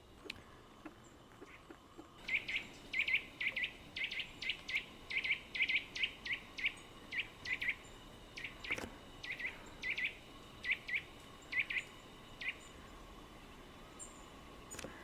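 A bird calling in a long run of short, sharp chirps, about two a second and often in pairs, that stops a couple of seconds before the end. A single faint knock is heard about halfway through.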